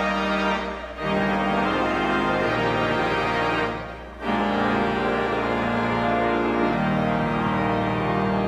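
Church organ playing sustained chords, the sound dropping away briefly about a second in and again about four seconds in between phrases.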